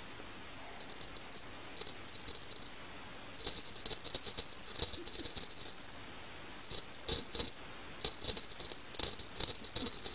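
Small jingling rattle in irregular bursts of quick clicks with a high, bell-like tinkle.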